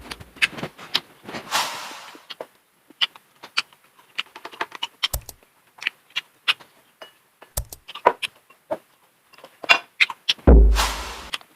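Close-up eating sounds: chewing with scattered crunches, clicks and smacks from crisp food and seafood being handled. A heavy thump with a crunchy hiss comes near the end.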